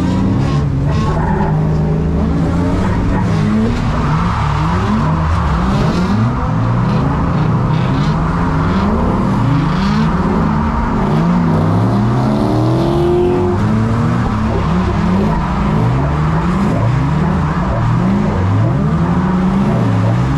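Several drift cars run in a tandem train, their engines revving up and down over and over with the throttle, the overlapping engine notes climbing and dropping. The tyres skid and squeal as the cars slide.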